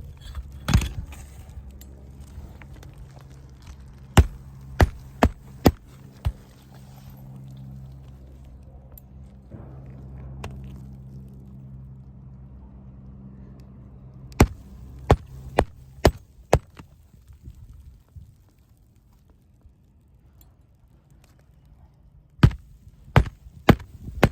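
Hammer driving roofing nails into an asphalt shingle: sharp strikes in runs of three to five, about two a second. A low steady hum sits underneath and stops about sixteen seconds in.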